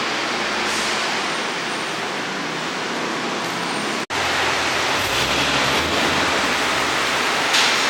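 Steady city street traffic noise, an even rushing hiss with no single engine standing out. It cuts out abruptly about four seconds in and resumes slightly louder and fuller.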